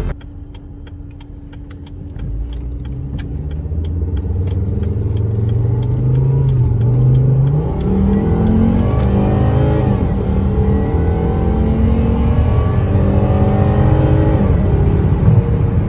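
2009 Volvo S40 T5's turbocharged 2.5-litre inline five-cylinder engine accelerating the car from a low steady run. The revs climb and fall back several times as it shifts up through the gears. Faint clicking can be heard in the first few seconds.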